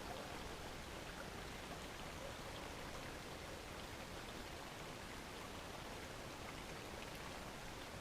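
Faint, steady hiss of woodland background noise, with a few faint ticks.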